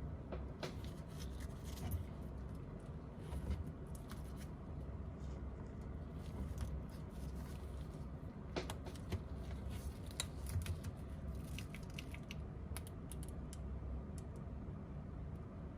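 Small hand tools clicking, tapping and scraping on a phone during repair work. The irregular clicks come in clusters, over a steady low hum.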